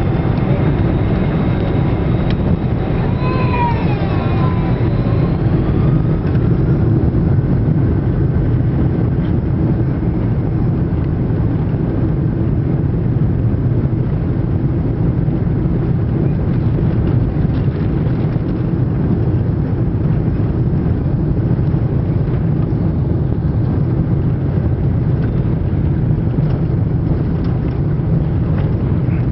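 The four engines of a Boeing 747-400 running at high thrust during take-off, heard as a loud, steady roar inside the cabin. A faint whine glides up and down in pitch about three to four seconds in.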